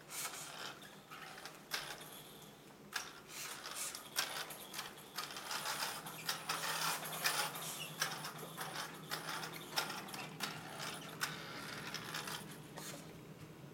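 Toy car's plastic gears and wheels clicking and rattling in irregular bursts as it drives along, over a steady low hum.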